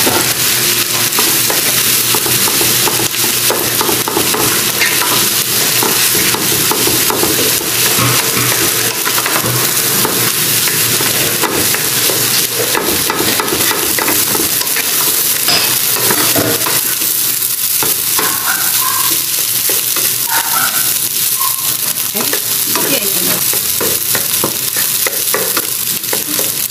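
Fried rice with shrimp and corn sizzling in a frying pan, with a steady hiss, while a wooden spatula stirs and turns it.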